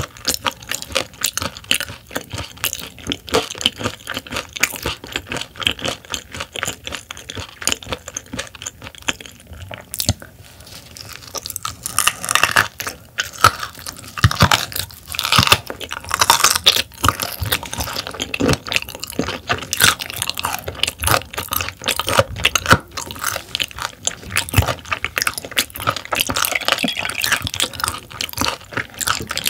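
Close-miked chewing of raw silver pomfret (butterfish) sashimi: a steady run of wet clicks and crackles from the mouth. It grows louder about halfway through as a fresh piece is bitten into.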